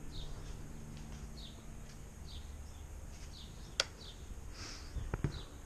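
A small bird chirping repeatedly, short falling chirps about once a second, over a low background rumble. A sharp click comes just under four seconds in, and a few knocks near the end.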